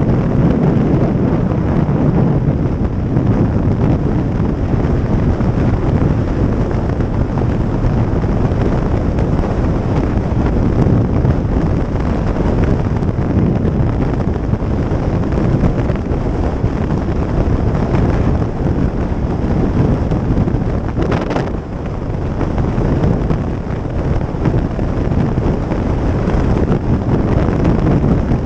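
Heavy wind noise on the microphone of a moving motorcycle, with the bike's running and road noise underneath. The level dips briefly about three-quarters of the way through, then picks back up.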